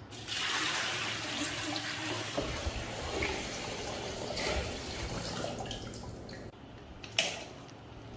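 Water running or pouring, starting abruptly and easing off after about six seconds, with one sharp knock about a second later.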